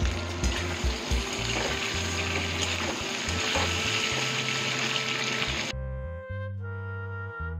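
Pointed gourd pieces sizzling as they fry in hot mustard oil in a wok, with a steady hiss that stops abruptly about three-quarters of the way through.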